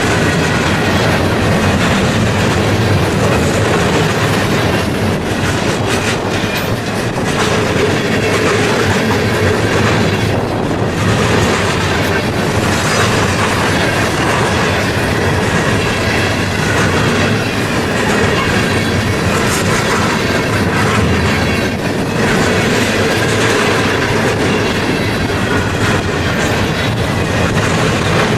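Freight cars of a long train rolling past steadily, steel wheels clicking over rail joints, with faint wheel squeal at times.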